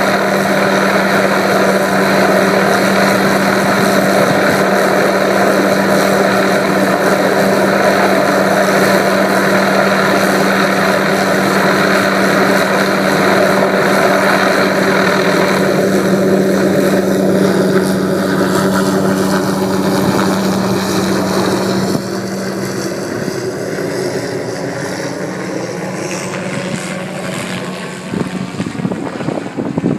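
Helicopter hovering with a steady rotor and engine drone and a strong low hum, dropping in level about two-thirds through, its pitch shifting as it moves, with wind buffeting the microphone near the end.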